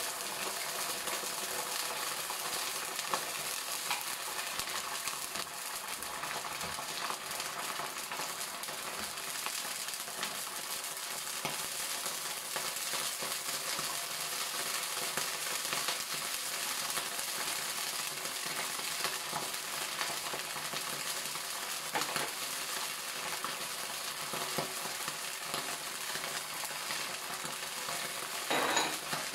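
Meat, tofu and shallots sizzling steadily in sauce in a non-stick wok over a gas flame, with a few faint clicks and a short louder sound near the end.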